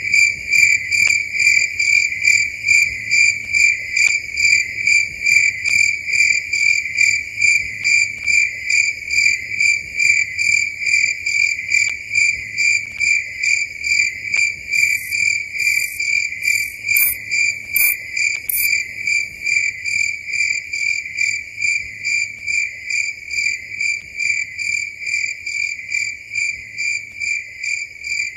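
Crickets chirping in an even, steady pulse of about two chirps a second, loud. A few brief, much higher-pitched chirps sound about halfway through.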